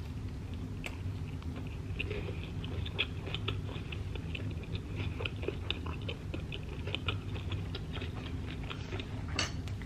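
Close-miked chewing of a soft shrimp taco loaded with lettuce and pico de gallo: a steady run of small mouth clicks, over a low steady hum.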